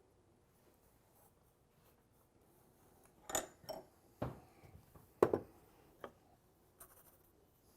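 Workshop handling noises: after a quiet start, half a dozen sharp knocks and clatters of hard objects being picked up and set down on a workbench, the loudest a little past halfway.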